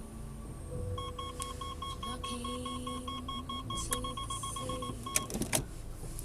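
Car parking sensor beeping in rapid, even pulses, about five a second, as the car edges close to an obstacle. Near the end the beeps come closer together and merge into a short solid tone, the warning for a very close gap. A few sharp clicks follow, over a steady low engine and road rumble.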